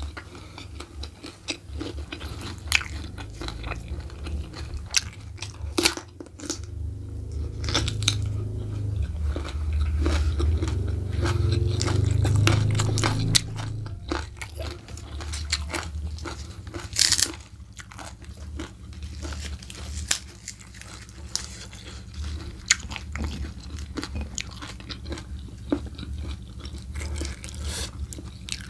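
Close-miked mukbang eating: wet chewing and mouth sounds with many short crunchy bites while rice and side dishes are eaten by hand. For several seconds in the middle a louder low hum or rumble sits under the chewing.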